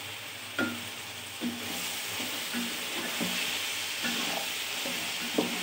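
Vegetables sizzling as they fry in oil in a metal pot, stirred with a wooden spatula that knocks and scrapes against the pot every half second or so.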